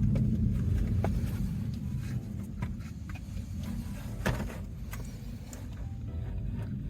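Low rumble with a few sharp clicks and taps from plastic dash trim and parts being handled under a car's dashboard. The rumble is strongest in the first couple of seconds and then eases off, and the loudest click comes about four seconds in.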